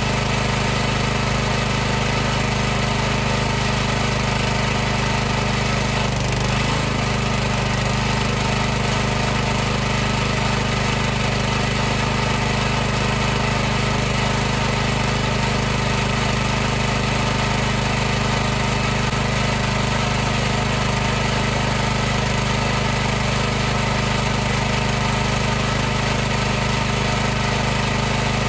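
High-pressure washer running steadily, its motor and pump giving a constant low hum under a hiss that spans the whole range.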